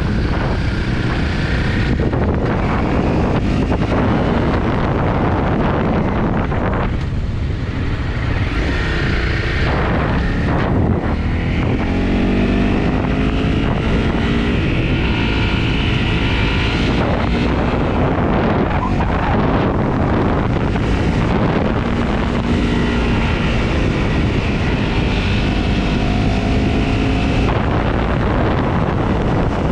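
Honda CRF250 single-cylinder four-stroke motorcycle engine running on the move, its revs rising and falling, under heavy wind noise on the microphone.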